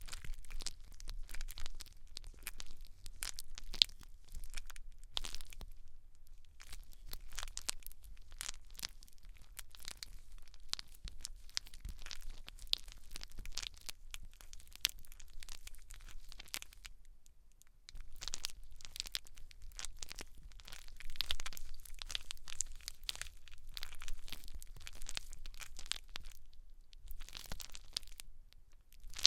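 Close-miked scalp and hair ASMR: dense, fast crackling and crinkling as the hair is worked over, with a brief lull about halfway through and another near the end.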